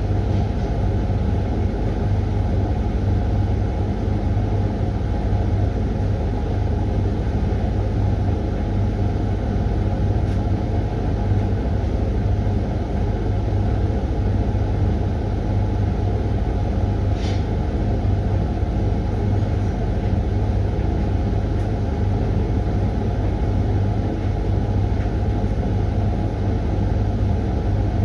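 Hoover tumble dryer running its Refresh programme: the drum turning and the fan blowing make a steady low rumble, with one light tap about halfway through.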